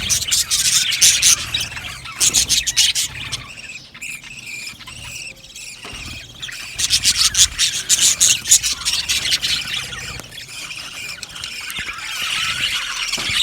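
A flock of budgerigars chattering, a dense run of rapid high chirps and clicks. It is busiest at the start and again past the middle, and thins out in between.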